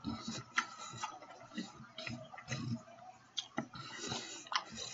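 A person chewing a mouthful of steak sandwich close to the microphone: irregular mouth clicks and smacks at uneven intervals.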